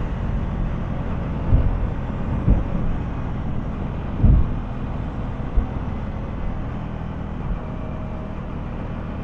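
CFMoto 300SR motorcycle riding at a steady speed: a steady engine drone under rushing wind noise, with a few short gusty thumps in the first half.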